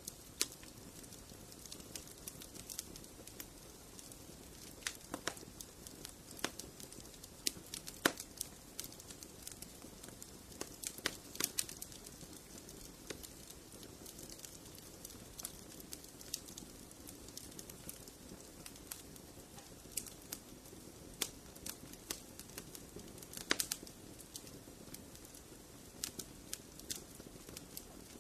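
Fireplace fire crackling steadily: irregular snaps and pops over a soft hiss of flame, with a few sharper pops standing out.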